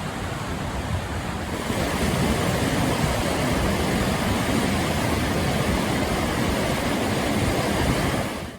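Colorado River rapids rushing in a steady roar, growing louder about two seconds in and cutting off suddenly at the end.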